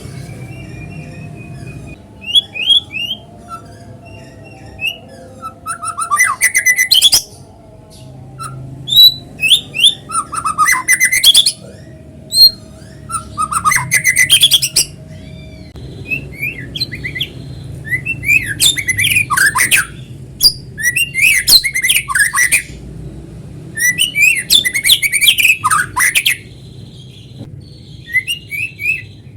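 White-rumped shama singing in repeated bursts of rapid, varied notes, clear whistles mixed with harsh scratchy ones, with short pauses between phrases. This is the energetic full song that keepers call 'gacor'.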